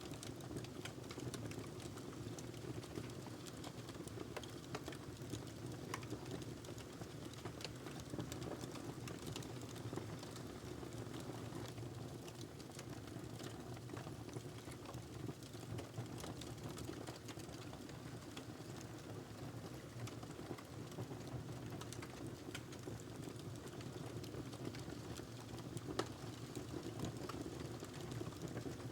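Wood fire crackling in a fireplace: a steady low hiss and rumble under frequent small irregular pops and snaps, with one sharper pop near the end.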